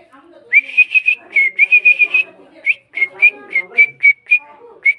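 Cockatiel whistling a quick run of short, high notes, about seven a second, then after a short break a slower string of similar notes.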